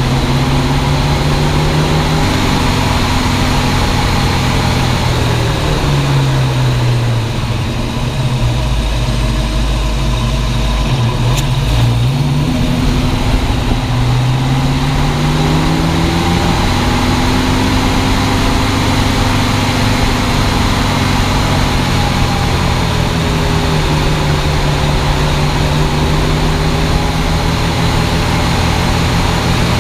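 1965 Ford Mustang driving, heard from a camera under the car: the engine note drops and climbs back several times as the car slows and picks up speed, over steady road noise.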